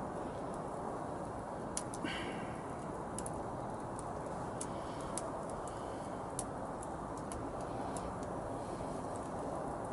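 Wood campfire burning, with a steady rushing hiss and scattered sharp crackles and pops.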